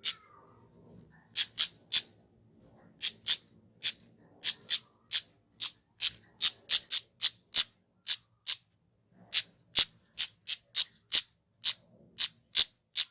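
Kemade, a small flowerpecker, giving a rapid series of very short, sharp, high-pitched calls, about two a second, with brief pauses about a second in and again past the middle.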